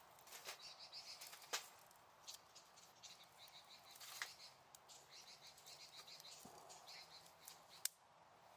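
Small wood campfire crackling quietly, with sharp pops every so often, the loudest about a second and a half in and near the end.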